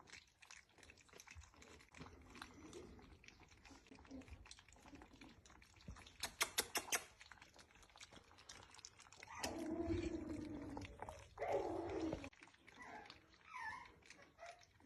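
A dachshund whining in two drawn-out calls of a second or more in the second half, with shorter faint whimpers after them. Before that comes a quick run of about five sharp clicks.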